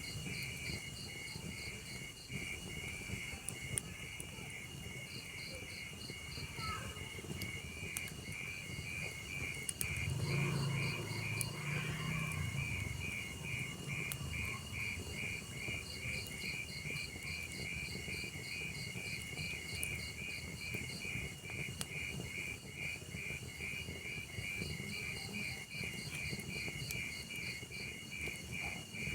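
Insects chirping in fast, even pulses with a steady high trill behind them, over faint scattered crackles from a wood fire. A low rumble swells briefly about ten seconds in.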